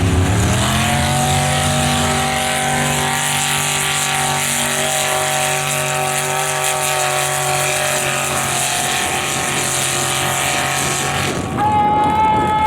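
A competition pulling tractor's engine revs up in the first second and holds a steady, high-revving note under load during the pull. Near the end the sound switches abruptly to a different, higher steady engine note.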